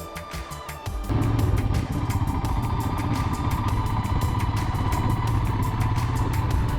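Music ending about a second in, then a motorcycle engine running steadily while riding, a low even hum.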